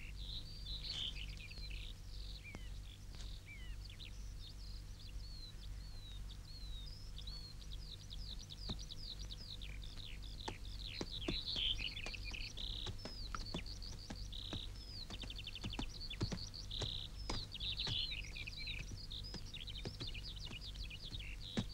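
Many small birds chirping and trilling, short calls and quick downward-sweeping notes overlapping, growing busier about halfway through. A steady low hum and scattered faint clicks run underneath.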